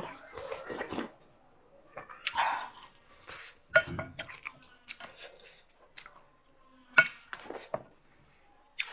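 Close-up eating sounds of noodle soup: chewing and mouth noises with scattered clinks of a utensil against a bowl. The loudest is a sharp clink about seven seconds in.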